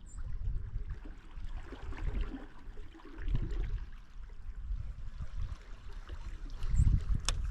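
Water lapping and trickling against a kayak's hull, with one sharp click near the end.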